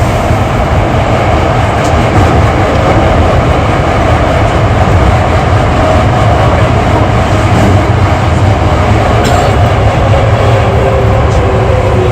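Hankyu 8300 series electric train heard from inside the car, running through a subway tunnel: a steady loud rumble of wheels on rail. Faint steady tones sit above it, and near the end a faint tone falls slightly in pitch.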